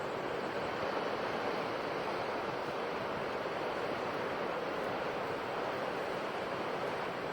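Ocean waves washing onto the shore in a steady wash of surf, with little rise and fall.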